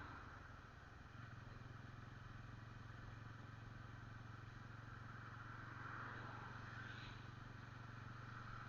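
Motorcycle engine running steadily, quiet, with a low hum that firms up slightly about a second in.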